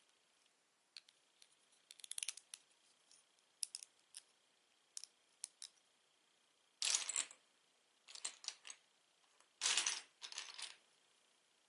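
Plastic Lego bricks being handled and sorted: scattered light clicks and taps, with two louder clatters of pieces.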